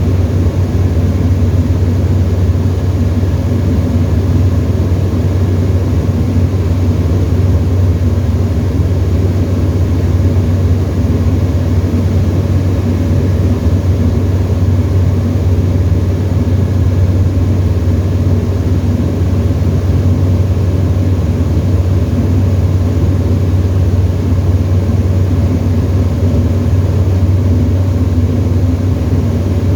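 Tecnam ultralight aeroplane's engine and propeller running at a steady cruise setting, a continuous loud drone with a strong low hum that does not change.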